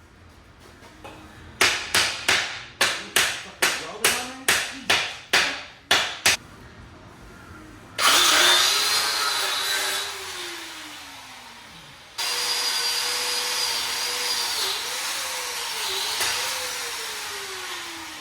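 An angle grinder cutting through the rear axle's rusted U-bolt nuts. First comes a quick series of about a dozen short sharp bursts, roughly two a second. Then there are two longer cuts: the grinder's whine dips each time it is pressed into the metal, and it winds down in pitch when it is let off.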